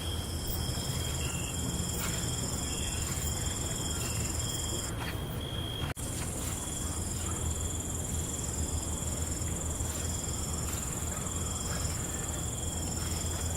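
Crickets chirping steadily in a night ambience, with shorter insect chirps in between over a steady low rumble. The sound drops out for an instant about six seconds in, then carries on.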